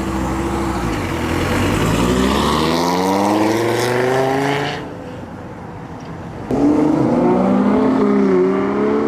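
A supercharged car's engine accelerating away, its pitch climbing for a few seconds before it drops off suddenly. About six and a half seconds in, another car engine comes in abruptly, loud and fairly steady, with a brief dip in pitch.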